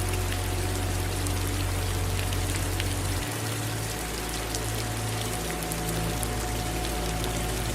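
Steady rain falling, with many small drops ticking, over a continuous low rumble that shifts slightly about three seconds in.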